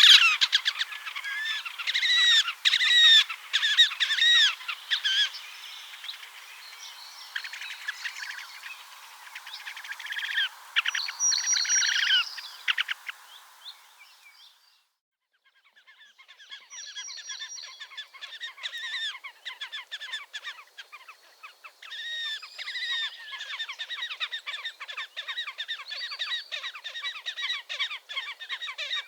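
Slavonian grebes calling: rapid, high trills of repeated arched squealing notes. The calls fade out to a brief silence about halfway through, then resume more softly.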